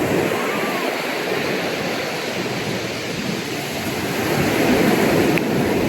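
Ocean surf breaking on a beach, a steady rush of waves that swells about four to five seconds in.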